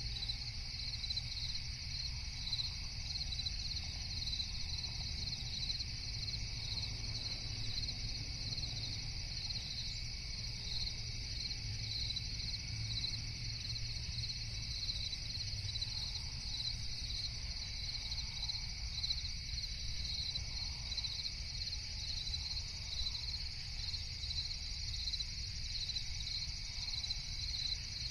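Night chorus of crickets chirping steadily in a continuous high, evenly pulsing trill, over a low steady rumble.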